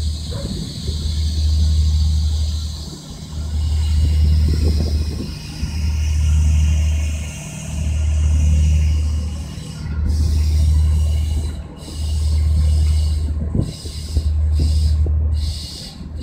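Low engine hum from a stationary diesel passenger train idling, swelling and fading about every two seconds, with a steady hiss above it.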